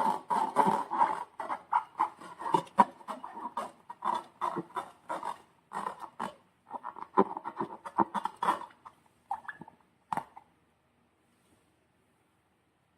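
Slime being worked by hand: a run of quick, irregular sticky clicks and squelches that stops about ten seconds in.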